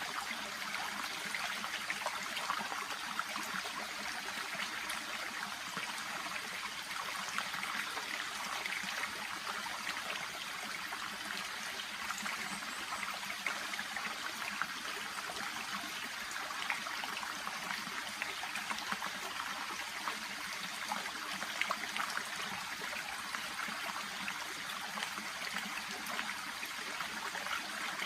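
A small shallow brook babbling and trickling steadily, with fine irregular splashes and gurgles.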